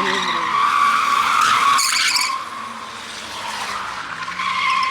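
Car tyres squealing in a long continuous screech, loudest in the first two seconds, then easing off.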